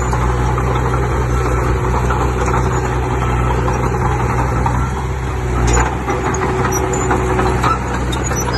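Heavy diesel earthmoving machine engine running steadily, with a brief louder burst just before six seconds in, after which the deepest part of the engine note drops away.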